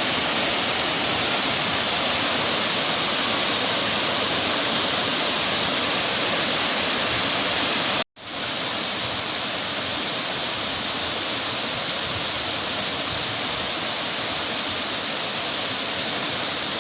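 Steady rushing of a waterfall's falling water. It breaks off for an instant about eight seconds in and comes back slightly quieter.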